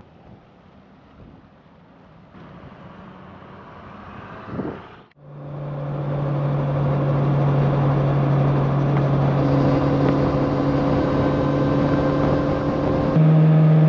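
Motorcycle riding along: faint wind and road noise for the first few seconds, then after a brief drop-out the engine's steady hum builds in loudness and holds, stepping up in pitch and loudness near the end.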